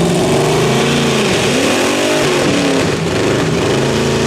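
A pulling vehicle's engine running hard at high revs. Its pitch rises and falls around the middle, then holds steady.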